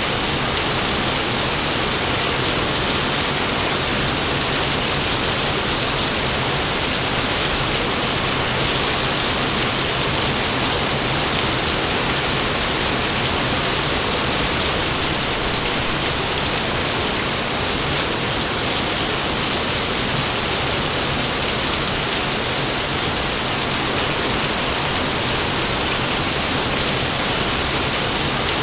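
Heavy rain falling in a steady downpour, with no thunder.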